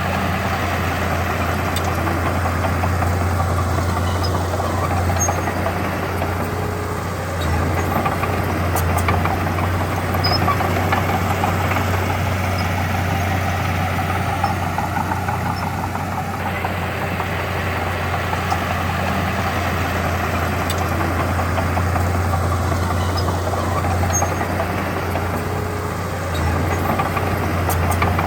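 Diesel engine of heavy earthmoving equipment running steadily with a deep, constant drone, picking up slightly about seven seconds in and again near the end.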